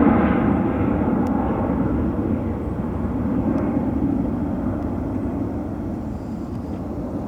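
Jet airliner's engine noise, loudest at the start and fading steadily as the aircraft moves away.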